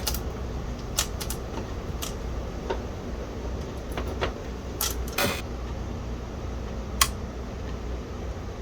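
A few short, sharp clicks and taps, about half a dozen, scattered over a steady low hum.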